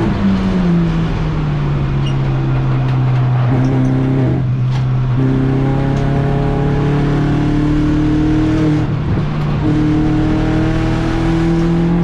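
Car engine running hard, its pitch creeping slowly upward and jumping abruptly about five times, as through gear changes under acceleration.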